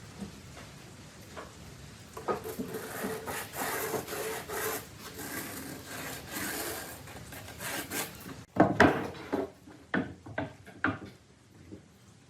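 Wood being scraped or rasped by hand in repeated strokes for several seconds, then a loud knock on wood followed by a few lighter knocks.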